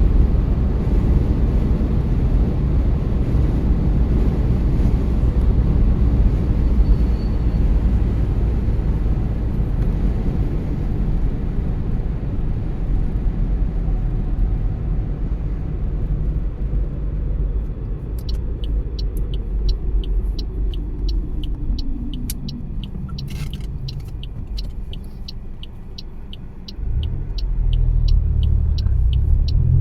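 Road and tyre rumble inside a moving car, slowly fading as the car slows. In the second half a turn-signal indicator ticks evenly, about one and a half times a second. Near the end the low rumble picks up suddenly as the car pulls away.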